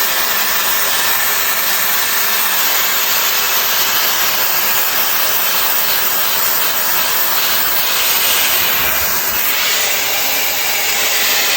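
Shark FlexStyle air styler running steadily, with a continuous rush of air blowing through its auto-wrap curling barrel.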